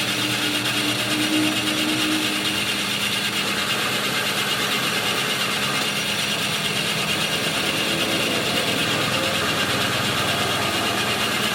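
Workshop machinery running steadily with an even, unbroken noise and a faint steady hum.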